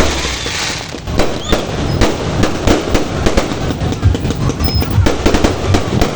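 Fireworks and firecrackers going off in quick, irregular succession: a dense run of sharp bangs and crackling pops, with a brief whistle now and then.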